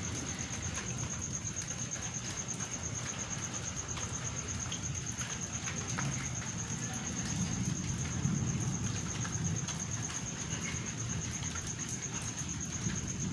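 Steady rain during a thunderstorm, with scattered drops ticking on a surface and a low roll of thunder swelling about halfway through.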